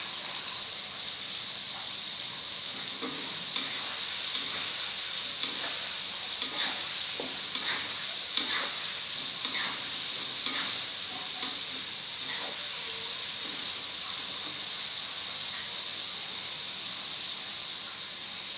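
Salted squid and chili stir-fry sizzling steadily in a non-stick wok as its small splash of added water cooks off. A wooden spatula stirs and scrapes through it several times in the middle stretch.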